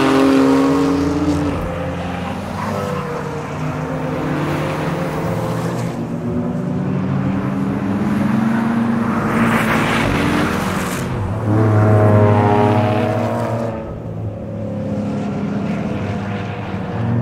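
Sports cars' engines and exhausts on a race circuit, several cars passing through a corner one after another, including a BMW M2 and a yellow Porsche 718. Around ten seconds in a car passes close with a rush of noise, then its engine note rises as it accelerates away, the loudest part.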